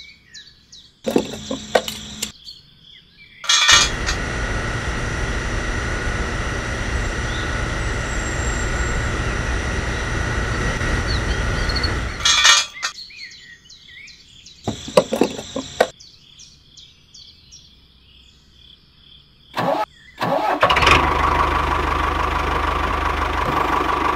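A small motor running steadily in separate stretches that start and stop abruptly, with shorter bursts in between.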